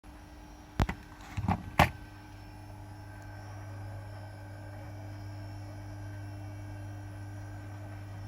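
Three sharp knocks or clicks in the first two seconds, then a steady electrical hum.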